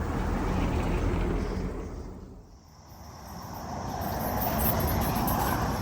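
Vehicles driving past: engine and tyre noise swells, fades out about two and a half seconds in, then builds again as another one comes by.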